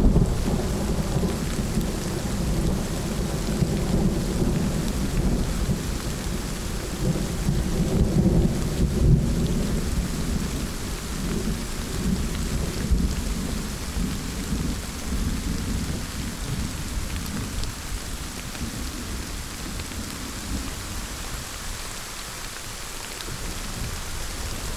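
Thunderstorm: steady rain with a long, low rolling rumble of thunder that swells about eight seconds in and slowly dies away toward the end.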